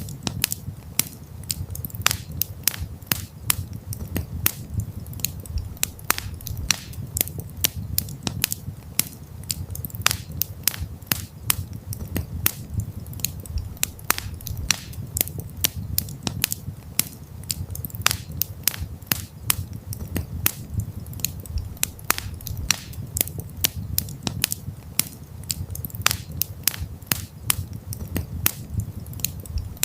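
Wood campfire crackling: a dense, irregular stream of sharp pops and snaps over a low, steady rumble of the flames.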